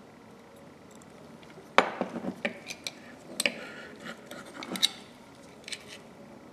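Small hard objects clinking and knocking together on a workbench, metal and glass being handled. There is a sharp clink about two seconds in, followed by a scatter of lighter clinks. Another cluster comes around three and a half to five seconds, and one faint tick near the end.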